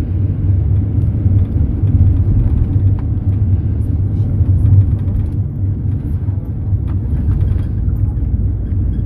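Mercedes-Benz Sprinter minibus on the move, a steady low rumble of engine and road noise heard from inside the passenger cabin.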